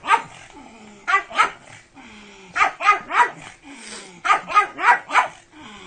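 Pug barking: short, sharp barks in quick runs of two to four, about ten in all.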